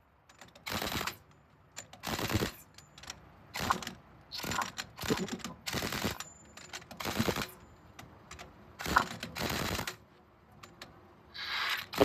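Pneumatic impact wrench rattling in about nine short bursts on a truck wheel's nuts.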